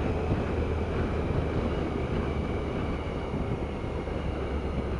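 Triumph Tiger 1050 Sport's three-cylinder engine running on the road through its stock exhaust, which sounds a bit muted, mixed with wind and road noise. It slowly gets quieter as the bike eases off.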